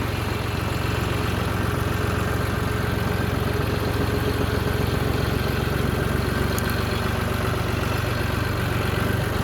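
Vehicle engine running steadily with a constant low hum while driving along.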